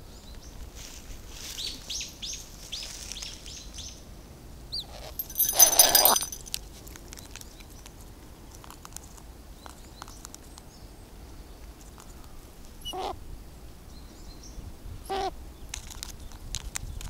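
Birds calling: quick high chirps over the first few seconds, one loud harsh call about six seconds in, and two short cawing calls from crows near the end, with faint ticks in between.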